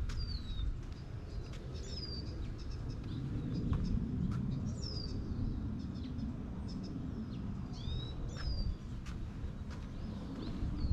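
A bird calling again and again: short chirps that slide downward, about one every second or two, over a steady low rumble.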